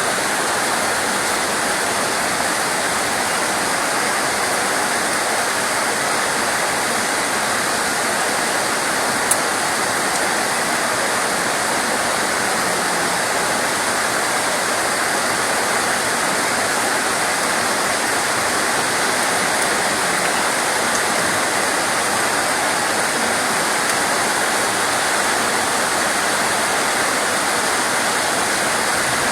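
Steady rain as a dense, even hiss, with a single short sharp click about nine seconds in.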